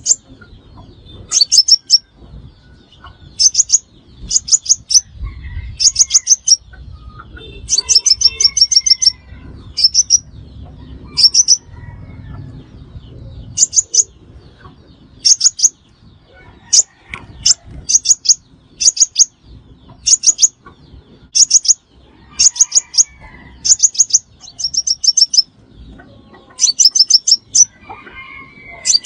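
Sunbird calling: short bursts of three to six rapid, very high-pitched chips, repeated every second or two.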